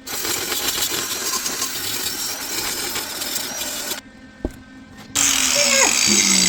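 Welder crackling steadily on the steel differential cover for about four seconds as a hole is welded up, then stopping. About a second later a power tool starts, its whine falling in pitch near the end.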